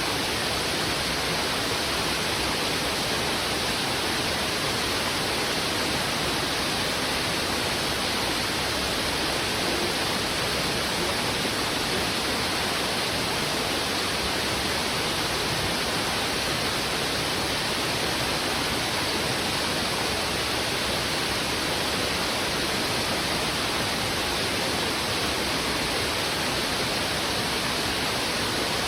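Fast, heavy river water rushing over rocks: a steady, even rush with no separate splashes or bird calls standing out.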